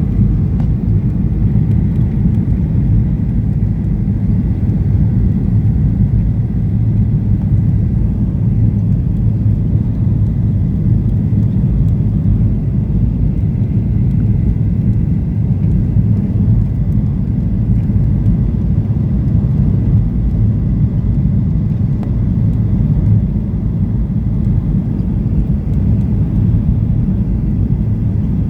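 Steady cabin rumble of a Boeing 737-800 in flight or on the ground, engine and airflow noise heard from inside the passenger cabin, even throughout with a faint high tone above it.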